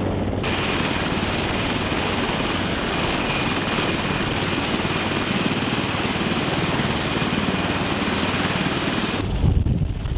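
Military helicopter rotors beating steadily with a thin high turbine whine over them. Near the end the sound cuts to gusty wind buffeting the microphone.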